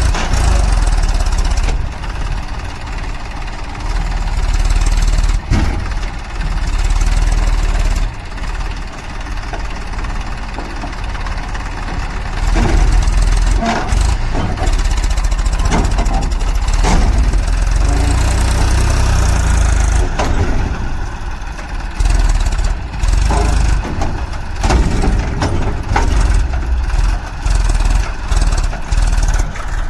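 Massey Ferguson 1035 tractor's three-cylinder diesel engine running hard under load while it strains to pull a water tanker. Its loudness dips and swells several times.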